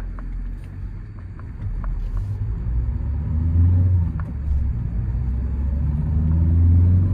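Ford Courier's 1.5-litre 100 hp diesel engine pulling the van away, heard from inside the cabin. It is a low, steady rumble that grows louder as the van picks up speed.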